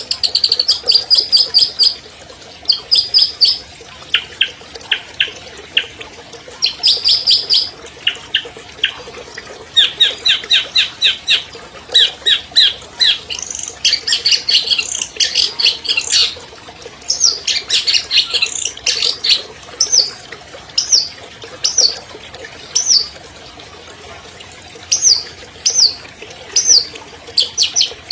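Long-tailed shrike (cendet) singing: loud bursts of rapid, high chattering trills and varied phrases, turning about two-thirds of the way through into single sharp down-slurred notes repeated about once a second.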